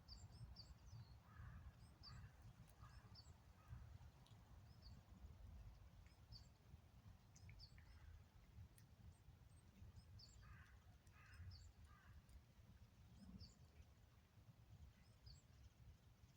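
Faint birdsong: a small bird's short high chirps repeating every second or so, with crows cawing in short groups a second or two in and again around ten seconds in, over a low steady rumble.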